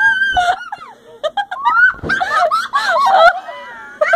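Children shrieking and giggling in high, gliding voices, with a short knock about halfway through.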